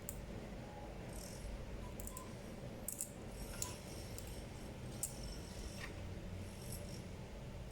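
Scattered light clicks and small metallic ticks of small parts being handled, over a low steady hum.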